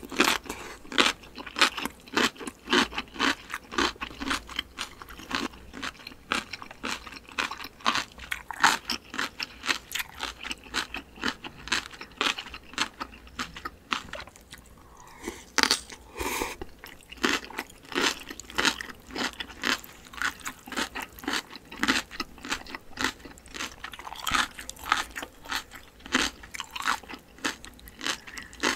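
Close-miked chewing of crunchy cucumber kimchi: a rapid run of crisp crunches that pauses briefly about halfway, then resumes with a fresh bite.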